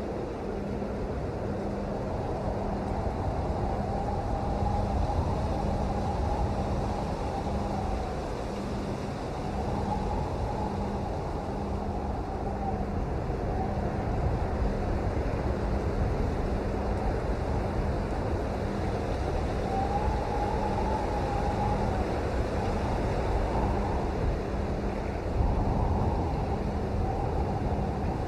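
Steady heavy rain with a faint low hum pulsing slightly faster than once a second, and faint wavering tones that come and go.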